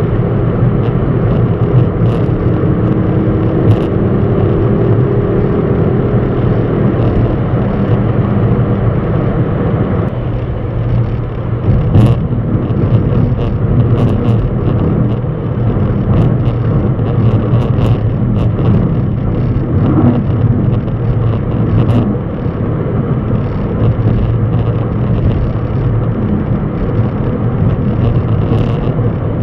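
Steady low rumble of a running vehicle, with a few sharp clicks scattered through it.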